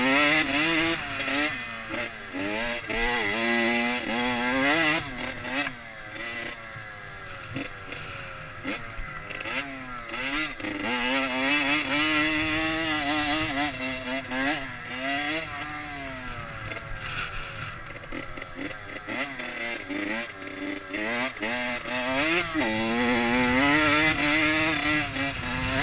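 Dirt bike engine revving up and down repeatedly as the rider opens and closes the throttle and shifts through the gears.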